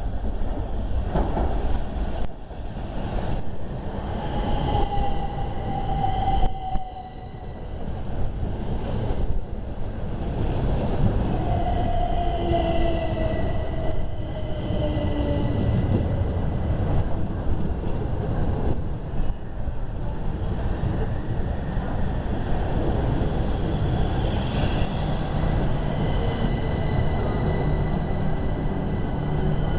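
Southeastern electric train running along a platform road with a steady low rumble and a few wheel knocks. Twice a squealing tone slides downward in pitch.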